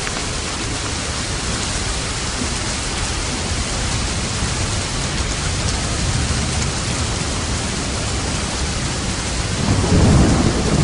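Steady rain falling hard, with a low rumble of thunder swelling up near the end.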